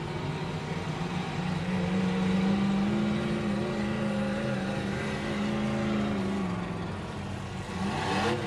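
Demolition derby car engines running hard at high revs in a steady drone, the pitch wavering as the drivers work the throttle while the cars push and ram.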